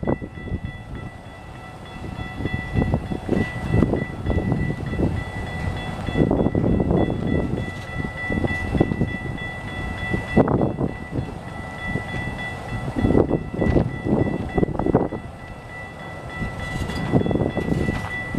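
A train rolling by on the tracks: an uneven rumble with repeated knocks, and a thin steady high tone that holds throughout.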